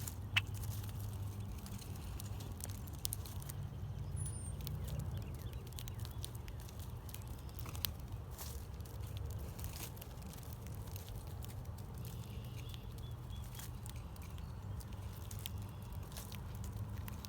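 Backyard bird-feeder ambience: scattered light clicks and taps over a steady low hum, with one short, high, falling bird chirp about four seconds in.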